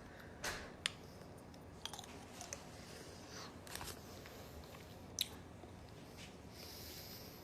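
Boiled peanuts being peeled and eaten: faint, scattered small cracks and clicks of the soft, wet shells opening, with chewing.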